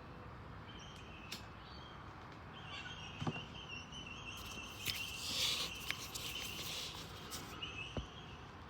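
Birds calling outdoors, with long high whistled notes through the middle few seconds, loudest around the middle. A few light clicks and taps sound at moments in between.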